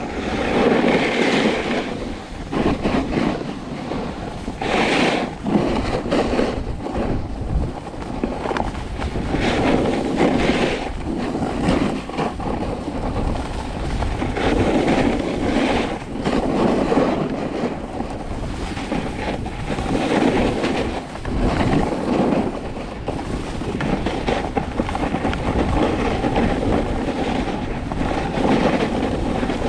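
Snowboard sliding and carving down a groomed slope, the edge scraping over the snow and swelling with each turn, with wind on the microphone.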